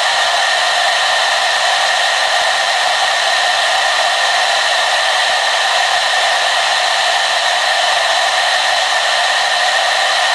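Hair dryer running steadily: an even, unchanging rush of air noise with a few faint steady whining tones and almost no bass.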